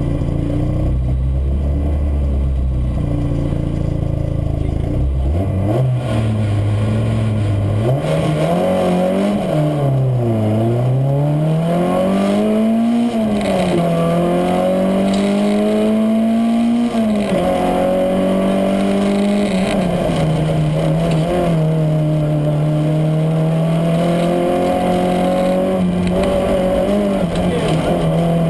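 Citroën AX GTI Group A rally car's 1.4-litre four-cylinder engine heard from inside the cabin: low and rumbling for the first few seconds, then pulling away hard, its pitch climbing and dropping back at each gear change, before holding a fairly steady high note for the last third.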